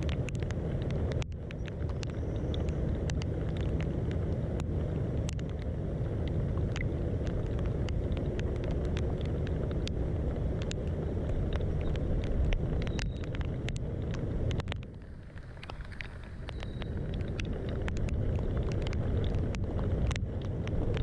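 Rain falling on a boat: scattered sharp drop ticks over a steady low rumble, which eases briefly about three quarters of the way through.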